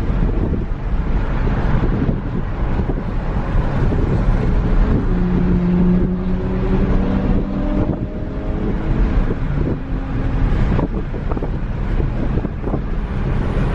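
Car driving, with engine and road rumble and heavy wind buffeting the microphone. About five seconds in, an engine note rises slowly for a few seconds, then fades back into the rumble.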